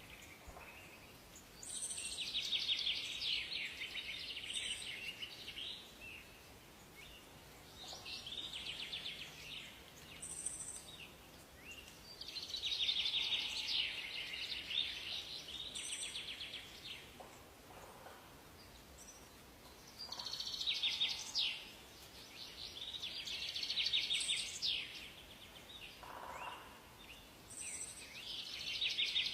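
A songbird singing rapid trilling phrases a second or two long, repeated every few seconds, with short high chirps between them over a faint forest background.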